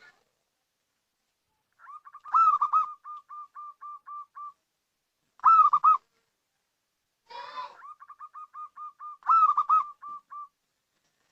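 Zebra dove (perkutut) cooing: two long songs, each opening with a few loud notes and trailing off into a run of quick, quieter, evenly spaced short coos, with a single short loud call between them.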